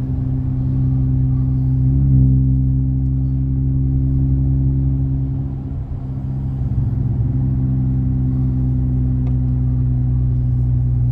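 Car engine and MagnaFlow aftermarket exhaust droning steadily while cruising, with a slight rise in pitch about two seconds in and a brief drop in level near the middle.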